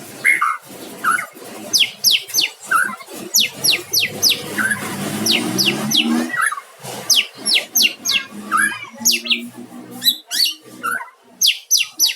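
White-rumped shama (murai batu) singing: a fast, varied song of quick downward-sweeping high notes mixed with lower whistled phrases, with a few short pauses.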